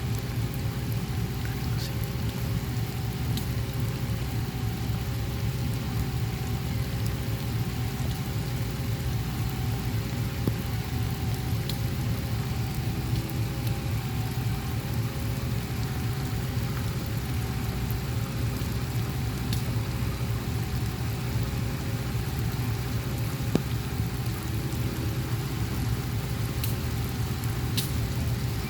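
Steady rain falling over the low, even hum of an idling engine, with a faint tone that pulses on and off about once a second.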